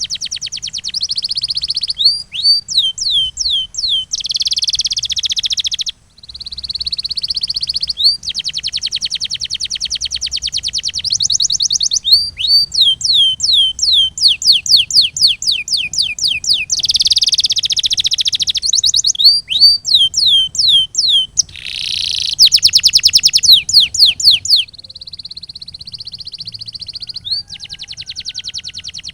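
Domestic canary singing a long song: fast rattling trills alternate with runs of repeated swooping downward notes, high-pitched and loud, with one brief pause about six seconds in.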